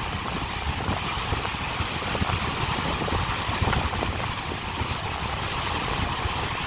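Rough Caspian Sea surf washing onto the shore as a steady rushing, with wind buffeting the microphone as a low rumble.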